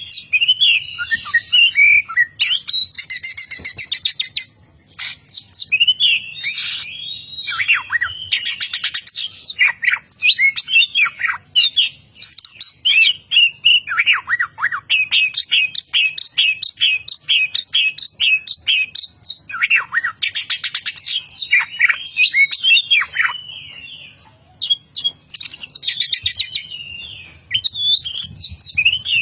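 Oriental magpie-robin singing a long, varied song of quick whistled notes and chatter, with runs of rapidly repeated notes and a couple of short pauses.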